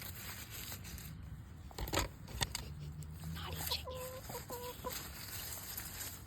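Chickens clucking, with a run of short clucks about four seconds in. A couple of sharp taps come around two seconds in and are the loudest sounds.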